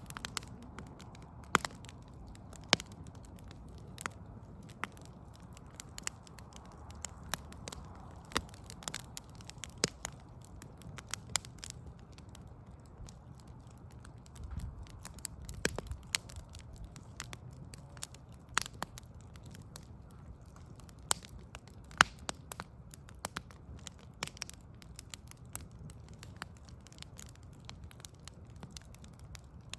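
Wood fire of burning logs and pallet wood crackling, with irregular sharp pops over a low steady rumble of flame.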